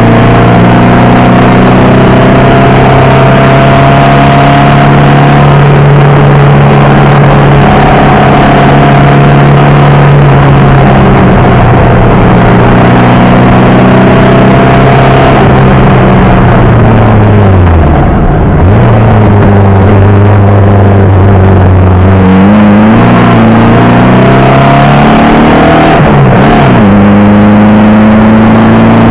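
Air-cooled Porsche Type 4 flat-four with Weber carburettors in a VW Beetle 1303, pulling hard at high revs. About two-thirds of the way through the revs drop sharply off the throttle, then climb again with a few quick blips and another brief dip before pulling up once more.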